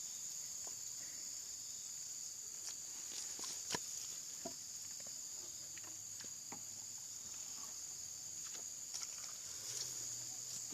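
Steady high-pitched chirring of insects, like a cricket chorus, with a few faint scattered knocks.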